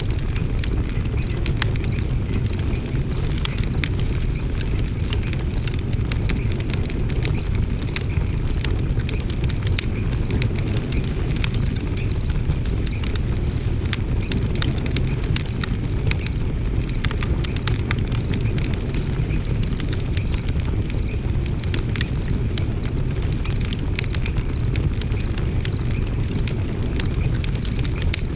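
Wood fire burning in a fire pit: frequent sharp crackles and pops over a steady low rumble. A faint, high, evenly repeating chirping runs underneath.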